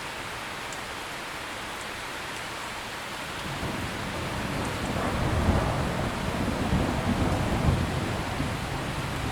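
Steady heavy rain with a long roll of thunder that builds about three and a half seconds in, rumbles loudest midway, and starts to ease near the end.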